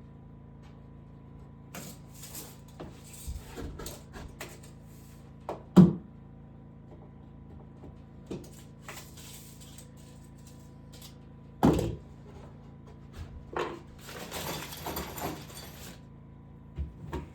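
Scattered knocks and clatter with some rustling, broken by two loud thumps about six and twelve seconds in, over a faint steady hum.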